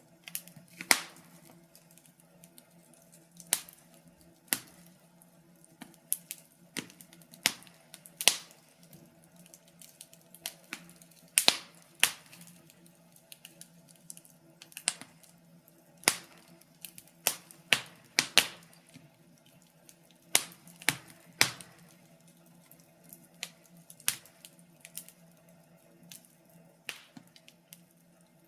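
Wood fire crackling: irregular sharp pops and snaps, a few much louder than the rest, over a faint low hum.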